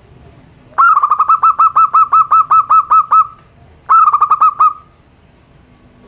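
Zebra dove (perkutut) cooing: a fast string of about fourteen clear, evenly spaced notes, then after a short pause a shorter burst of about seven more.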